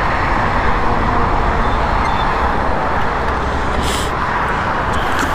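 Steady road traffic noise from passing vehicles, with a brief high hiss about four seconds in.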